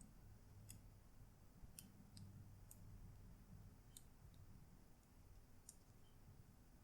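Faint, irregular small clicks and ticks of plastic laptop parts and a ribbon cable being handled while the cable is seated in its connector, over a low steady hum.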